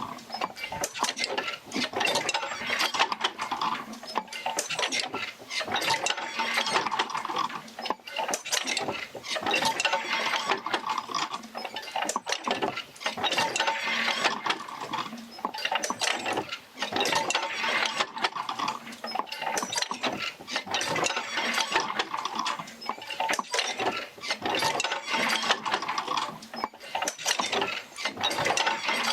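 Oil-field field wheel rocking back and forth to drive its jerker lines, with continual metallic clanking, clicking and creaking from the wheel and its rod connections. The clatter swells and eases in a slow cycle that repeats every few seconds, one swell per stroke.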